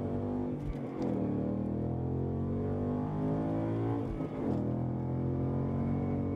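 2015 Mustang GT's 5.0 V8 running through an MBRP 3-inch cat-back exhaust under acceleration. The engine pitch dips at a gear change just before a second in, climbs steadily, drops again at the next shift about four seconds in, then holds steady.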